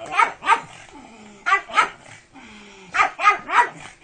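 A pug wearing a plastic cone collar barks in quick groups of two or three short yaps, with low, falling grumbles in the pauses between.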